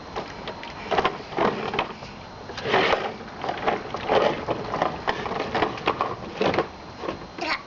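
Toy trucks being pushed across a surface, their wheels and bodies clattering and scraping in uneven bursts.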